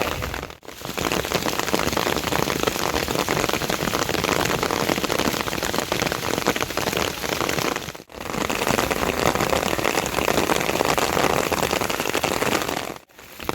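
Heavy monsoon rain pouring down steadily as a dense, even hiss. It drops out briefly three times: about half a second in, about eight seconds in, and near the end.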